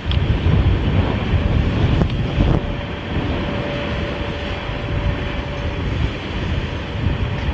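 Freight train of empty oil tank cars rolling past, with strong wind buffeting the microphone and a faint steady tone running under the noise.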